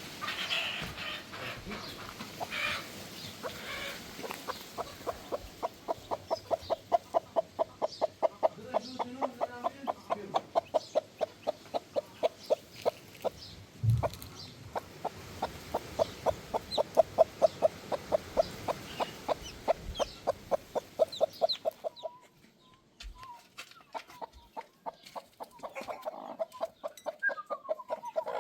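Chickens clucking: a steady run of short, evenly spaced clucks, about three or four a second, that stops near the end, followed by a few softer calls.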